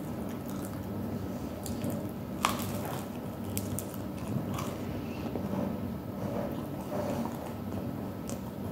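A person biting and chewing crispy fried chicken wing: wet mouth clicks and smacks, with one sharp click about two and a half seconds in.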